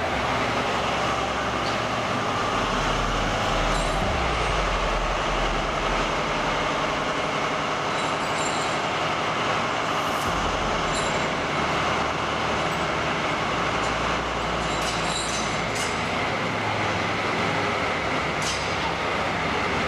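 Heavy vehicle running: steady, dense mechanical noise, with the deep rumble shifting in strength every few seconds.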